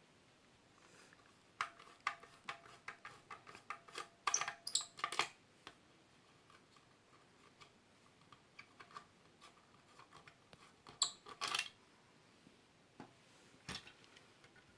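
Screwdriver working the screw on the back of an electric iron, faint: a quick run of small clicks and squeaks about two to five seconds in, then scattered clicks and taps.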